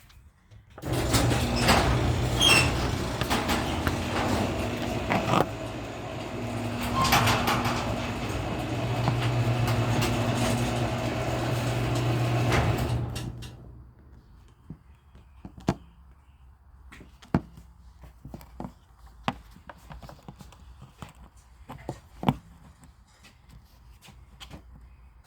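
Garage door running open on its motorised opener: a steady motor hum with rattling for about twelve seconds, stopping suddenly. After it stops come scattered light clicks and knocks.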